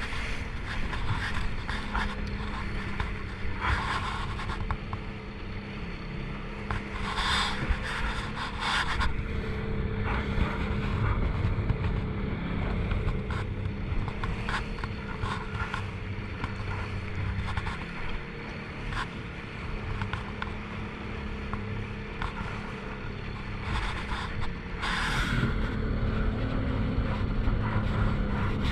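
A small motorboat's engine running steadily under way, with rushing wind and water noise. Short louder bursts of hiss come a few times, about 4, 8 and 25 seconds in.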